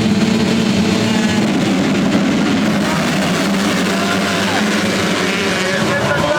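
Several motocross bike engines running together at high revs, their pitches rising and falling as the pack rides past.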